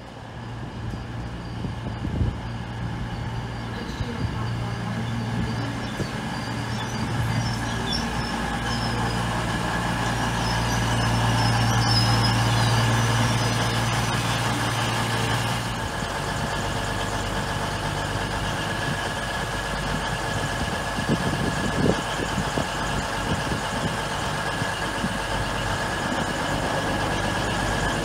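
CrossCountry Voyager diesel multiple unit's underfloor diesel engines running with a steady low hum as the train comes in and stands at the platform, growing louder to a peak near the middle. About halfway the hum breaks off and a ScotRail electric multiple unit moves along the near platform.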